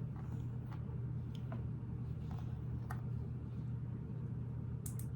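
A few faint, scattered clicks of plastic Lego plates being handled and pressed together, over a steady low hum.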